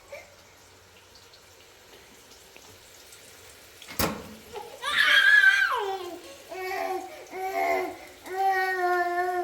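A young child's high-pitched wavering cries and calls, starting about five seconds in after a sharp click, with a longer held call near the end.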